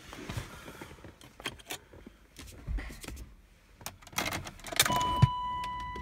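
Keys jangling and small clicks and knocks of handling in the 1992 BMW 850i, then, about five seconds in, a steady electronic warning tone from the car lasting about a second and a half.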